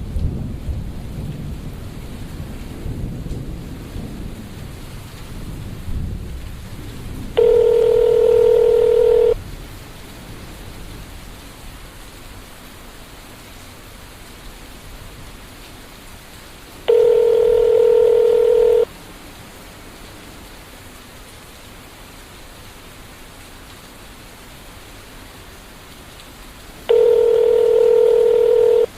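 A telephone tone sounds three times, about two seconds each and roughly ten seconds apart, over a steady hiss of rain. Thunder rumbles in the first several seconds and dies away.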